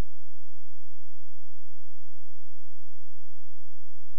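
A loud, steady electronic hum: a low drone with higher whining tones above it, holding the same pitch and level without any change.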